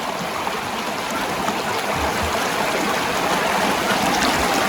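River water flowing steadily, a continuous rushing.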